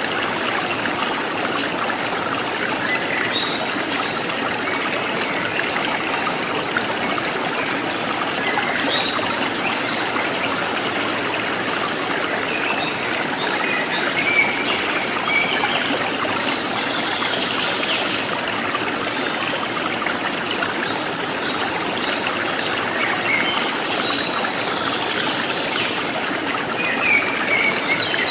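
Stream water trickling and splashing steadily, with short bird chirps scattered over it.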